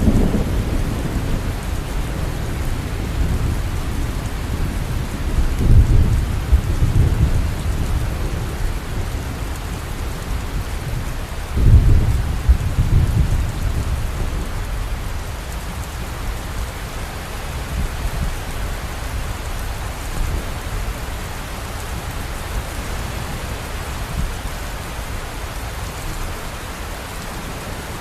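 Steady rain falling, with thunder rumbling low underneath; two stronger rolls of thunder come about 6 and 12 seconds in, and the rumbling settles down in the second half.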